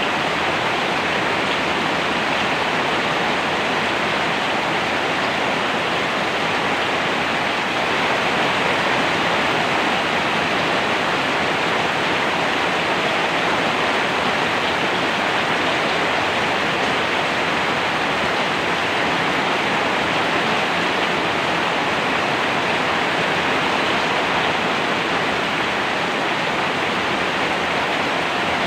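Steady heavy rain, an even rushing hiss without distinct drops or breaks.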